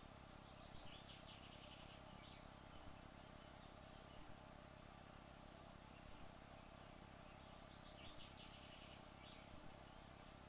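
Near silence, broken twice by a faint, high, rapidly pulsed chirping trill lasting about a second, once near the start and again near the end.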